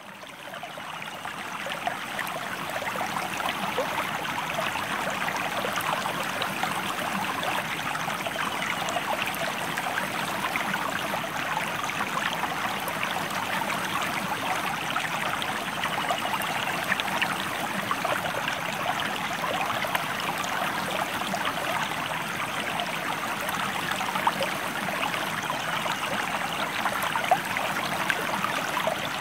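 River water running steadily, a dense rush full of small splashes and gurgles, fading in over the first second or two.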